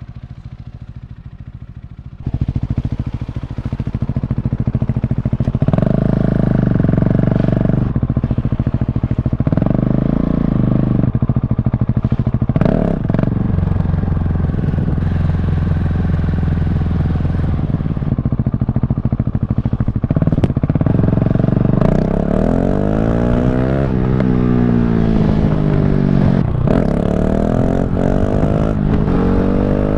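KTM 690 SMC R's single-cylinder engine with a very loud exhaust, running quieter at first, then opening up sharply about two seconds in. Near the end the revs climb and drop again and again as the bike accelerates up through the gears.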